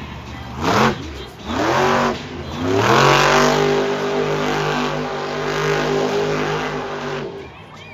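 Monster truck engine revving hard: two short blips, then a long rev held high for several seconds that falls away near the end.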